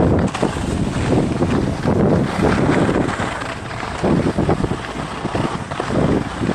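Wind rushing over the microphone of a skier moving downhill, swelling and easing again about once a second.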